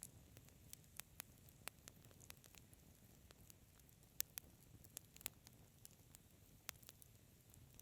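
Wood fire crackling: irregular sharp pops and snaps, the loudest a little past four seconds in, over a faint low background.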